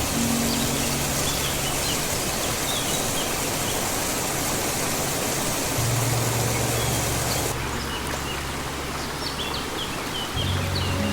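Rushing river water with small birds chirping repeatedly over it. About seven and a half seconds in, the hiss of the water abruptly turns duller and quieter.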